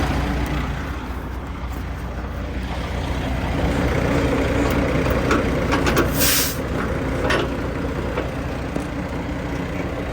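Semi truck's diesel engine idling steadily, with a few metal clicks and clanks and a short, sharp hiss of compressed air about six seconds in, followed by a smaller puff about a second later.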